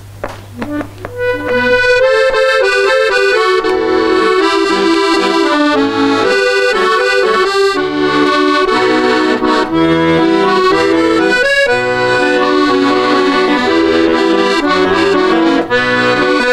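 Accordion playing the instrumental introduction to a song: a few soft notes, then from about a second and a half in, full sustained chords under a moving melody with a rhythmic bass.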